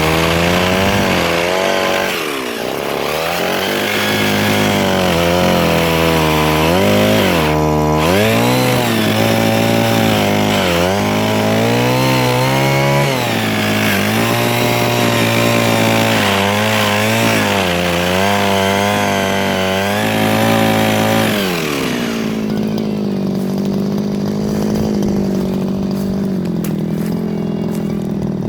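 Mini chainsaw cutting softwood: the motor note dips again and again as the chain bites and recovers between strokes. About three-quarters of the way through it drops to a steady idle.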